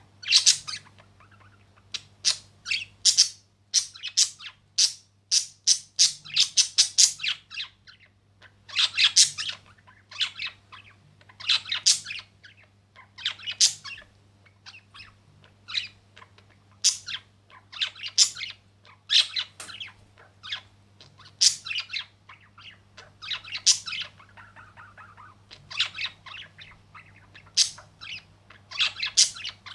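Birds chirping and squawking in quick, sharp calls, bunched in irregular flurries and loud close up, over a faint steady low hum.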